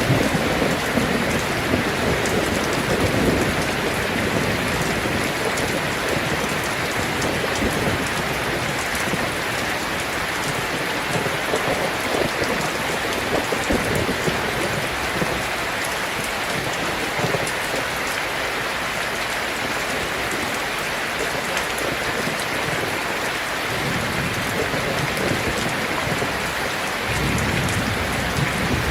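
Heavy rain falling steadily on a sheet-metal roof, a dense even patter, with low rumbles of thunder near the start and again near the end.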